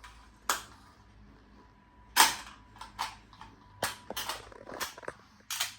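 A series of sharp clicks and knocks, about ten of them at irregular spacing, the loudest about two seconds in.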